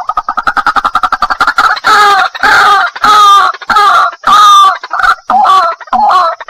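White-breasted waterhen calling: a fast run of short clicking notes, then loud, harsh repeated calls about every half second that come quicker near the end.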